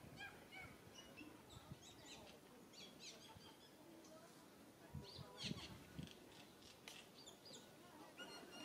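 Faint chirping of small birds in the background: scattered short, high chirps over quiet outdoor ambience, with a few soft low knocks about five to six seconds in.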